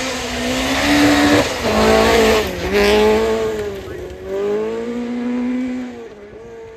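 Rally car engine revving hard as it passes, its pitch rising and falling through gear changes with a sharp dip about two and a half seconds in, then fading away near the end.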